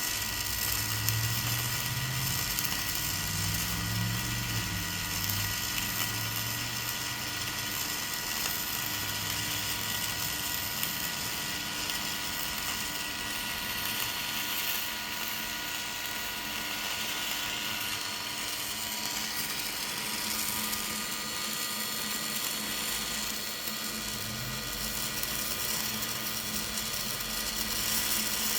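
A dual-shield (gas-shielded flux-cored) wire welder running a continuous bead on a steel truck frame: a steady, even crackling of the arc.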